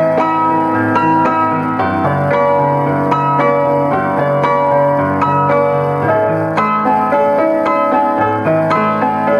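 Piano playing a self-composed piece: a running melody of several notes a second over sustained lower bass notes.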